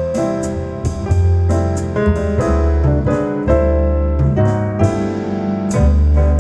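Recorded piano music with long deep bass notes and sharp percussive ticks, played back over Bowers & Wilkins 803 D4 loudspeakers.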